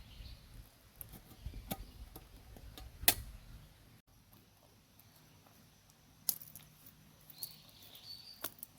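Open wood fire crackling: scattered sharp snaps, roughly one a second, the loudest about three seconds in. A faint high chirp comes near the end.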